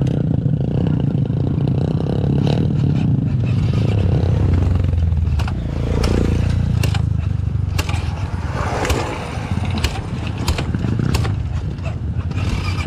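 Kawasaki KLX trail motorcycle engine running as the bike is ridden, with a steady low rumble. From about halfway on there are many sharp knocks and clatters.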